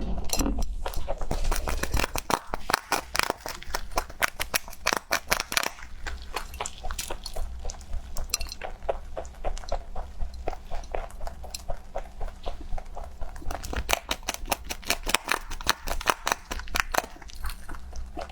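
A rabbit chewing crunchy food: rapid crunching clicks in two long runs, with a lull in the middle.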